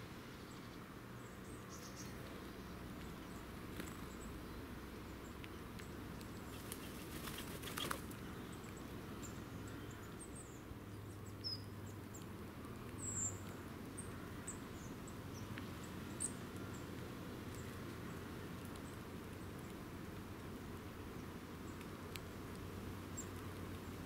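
A bird's wings flapping briefly about eight seconds in, and faint, short, high bird chirps scattered over the following seconds, over a low steady outdoor background rumble.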